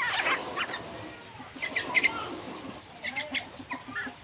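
A pet bird chirping: short, high chirps in three quick runs, about a second and a half apart.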